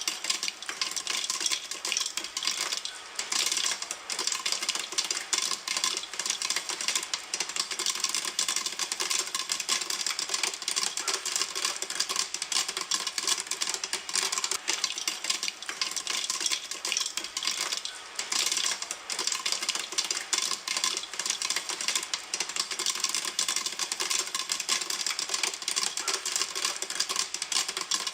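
Popcorn kernels popping in a pan, a dense, unbroken stream of rapid pops at a steady rate.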